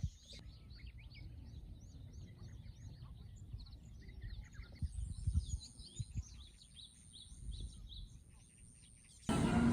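Many small birds chirping outdoors, short repeated calls overlapping, over a low rumble. Near the end the sound cuts suddenly to something much louder.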